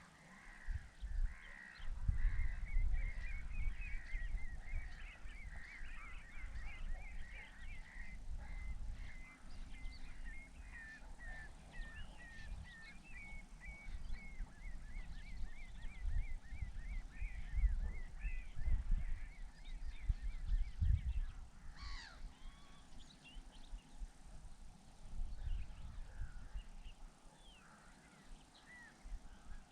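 Wild birds calling: a long run of quick, repeated chirping notes for about the first half, then scattered calls, with one sharp call a little over two-thirds through. Under them runs an uneven low rumble.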